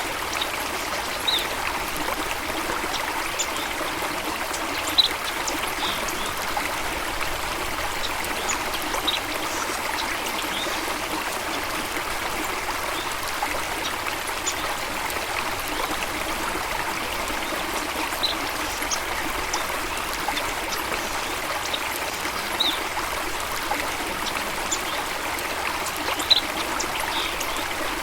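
Steady rush of running stream water, with a few short, high bird chirps here and there.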